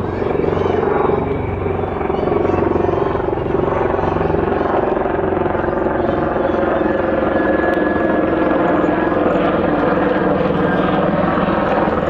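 Helicopter running steadily, its engine and rotor making a loud, continuous noise with a fast pulse.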